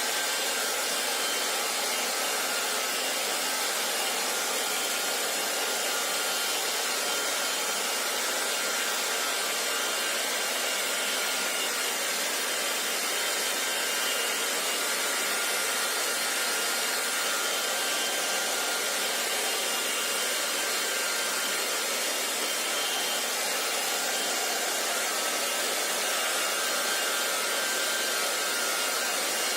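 Electric hair dryer running steadily: a constant rush of blown air with a faint steady whine from its motor.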